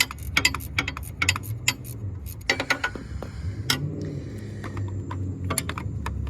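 Ratchet wrench clicking in quick irregular strokes as a bolt is worked, the clicks thinning out after about three seconds over a low hum.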